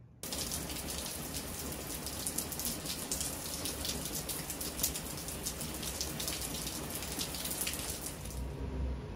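Rain falling fairly hard, a dense patter of drops. It starts abruptly just after the beginning and cuts off near the end.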